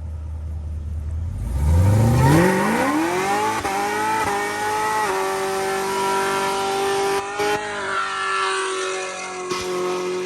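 Supercharged V8 of an 800 hp Camaro ZL1 1LE revving up from idle over about two seconds. It is then held at high revs over a hiss of spinning tyres in a burnout, with brief dips twice.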